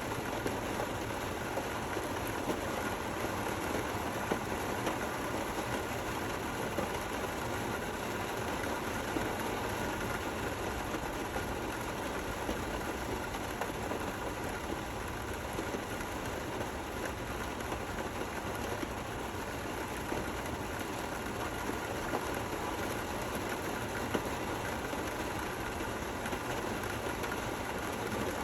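Steady rain falling: an even, continuous hiss with a few slightly louder drops scattered through it.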